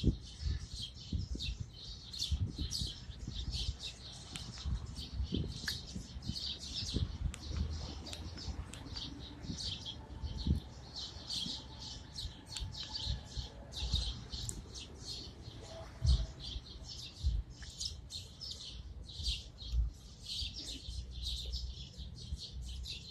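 A flock of small birds chirping continuously in many overlapping, rapid calls, with irregular low thumps and rumble underneath.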